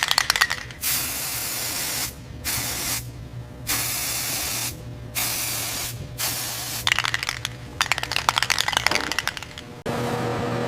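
Spraying hiss in repeated bursts, each about half a second to a second long, with short gaps and stretches of rapid crackling. About a second before the end it cuts to a steady motor hum.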